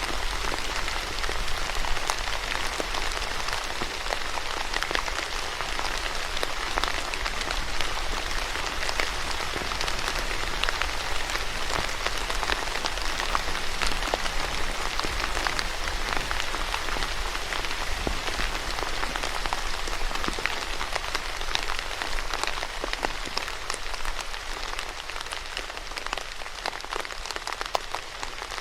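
Steady rain falling on a surface, a dense even hiss dotted with many distinct drop hits.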